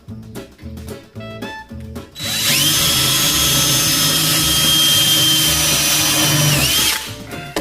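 An electric power tool spins up with a rising whine, runs steadily at full speed for about four and a half seconds, dips briefly near the end and stops.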